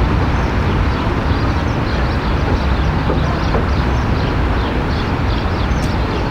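Tram running through a street junction with a steady, loud rumble, with a run of short high chirps repeating through the second half.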